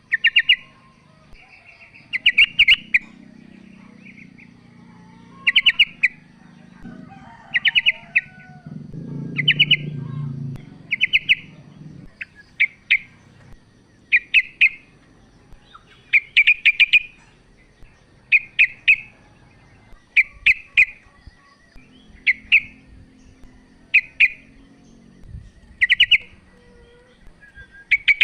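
Female sooty-headed bulbul calling to males: short bursts of quick, chattering notes, repeated about every one and a half to two seconds. A faint low rumble lies underneath partway through.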